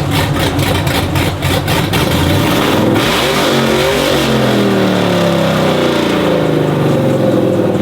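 V8 engine of a Chevy C10 pickup at full throttle with a roar: its revs climb sharply about three seconds in, then fall away steadily.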